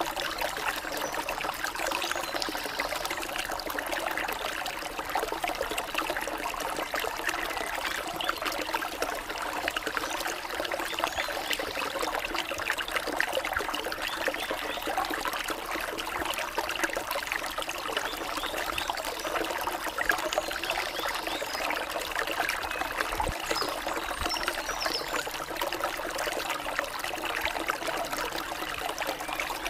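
Running water of a stream or small waterfall, flowing steadily without a break.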